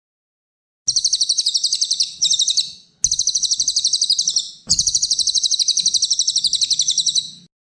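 A songbird singing in rapid trills of high, sharp notes, about a dozen a second, in three or four long phrases with brief breaks between them. It is a masteran recording, a songbird in full song played to tutor caged birds.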